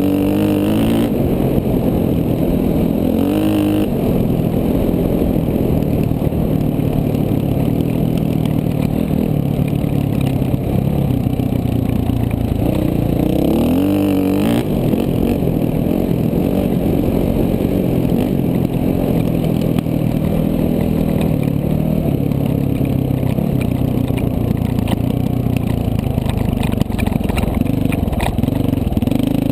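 KTM 450 dual-sport motorcycle's single-cylinder four-stroke engine running under way, its revs rising and falling with the throttle, with short climbs in pitch near the start, a few seconds in and about halfway through.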